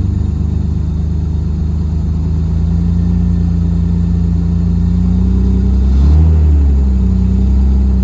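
1960 Austin-Healey 3000 BN7's straight-six running on choke just after a cold start. The engine speed rises briefly about six seconds in, then settles back.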